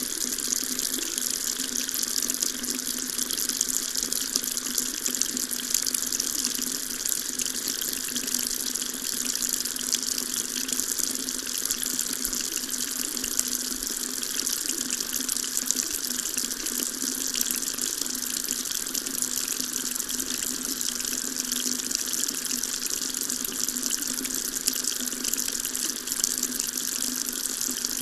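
Water running steadily from a tap, a continuous even splashing hiss.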